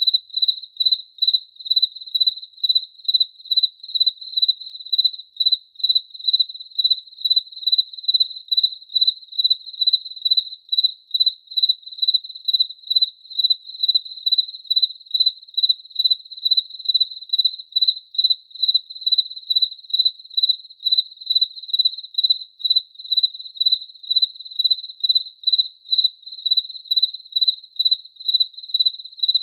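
A cricket chirping steadily, with evenly spaced high-pitched chirps at about two to three a second.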